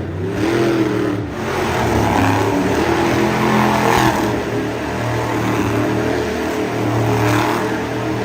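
Monster truck engine running hard and revving, its pitch rising and falling several times.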